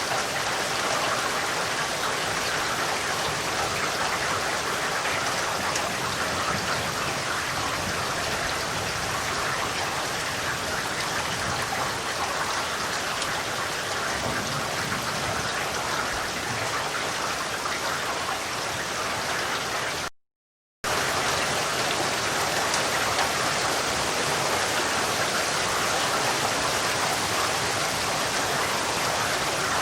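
Steady rain falling, an even hiss of many drops, cut by a sudden half-second gap of total silence about twenty seconds in.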